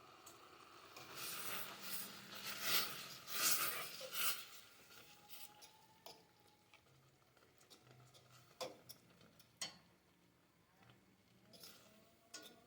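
Pot of orange marmalade (orange pulp, peel and sugar) boiling rapidly on the stove, bubbling and spattering for a few seconds in the first half, then quieter, with two sharp clicks later on.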